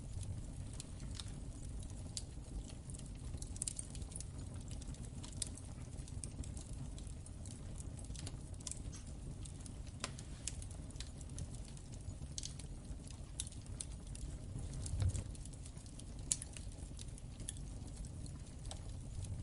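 Wood fire crackling in a fireplace: irregular sharp pops and snaps over a steady low rumble of the flames, with one brief low thump about fifteen seconds in.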